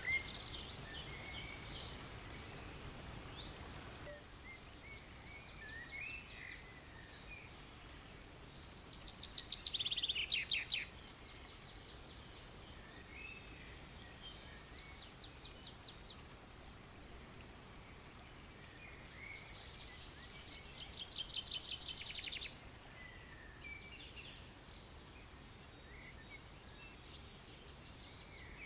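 Several wild birds chirping and calling among trees, with two louder rapid trills of quickly repeated notes, about a third and again about two-thirds of the way through.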